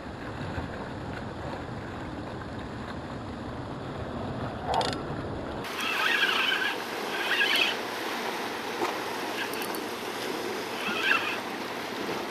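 Sea washing against the rocks, with wind on the microphone. From about halfway through come several short, higher-pitched bursts over it.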